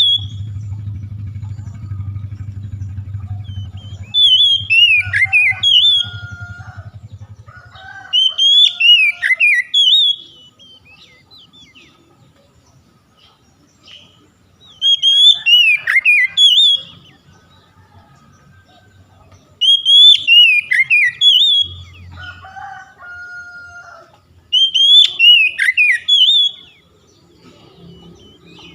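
Oriental magpie-robin (kacer) song: a loud whistled phrase of high, falling notes, repeated five times about every five seconds, with quieter lower notes between some phrases. A low hum underlies the first few seconds.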